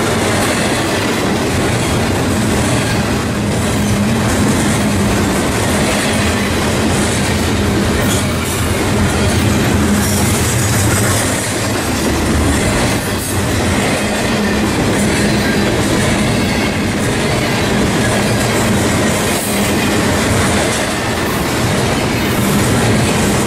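Double-stack intermodal freight train's container well cars rolling past close by, a loud steady rush and rattle of steel wheels on the rails.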